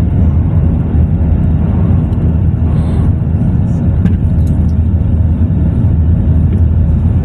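Aircraft during takeoff: a loud, steady low rumble of engines and airframe.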